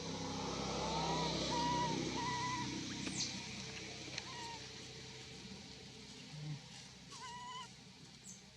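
Low rumble of a passing motor vehicle, loudest about two seconds in and then fading, with several short high squeaky calls in two bursts.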